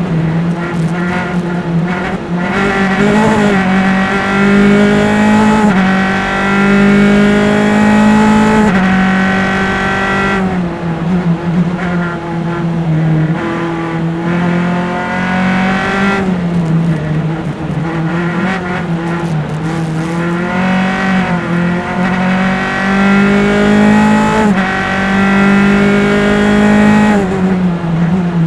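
A single-seater formula race car's engine, heard onboard at racing speed. It pulls up through the gears in repeated rising sweeps, with a drop in pitch at each shift. Twice it lifts off and downshifts for a corner before accelerating again.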